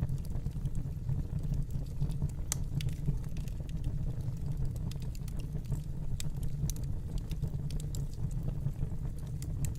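Fireplace fire burning: a steady low rumble with scattered sharp crackles and pops, a few louder ones standing out.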